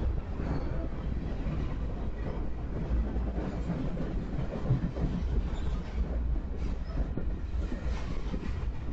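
A freight train of loaded flatcars rolling past close by: a steady rumble of steel wheels on the rails, with frequent irregular clicks and clanks as the wheels pass.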